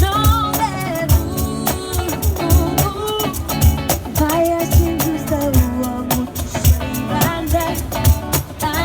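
Live pop-soul music through an LD Systems P900 PA system: a steady kick-drum beat about twice a second with hi-hats, and a melody line over it.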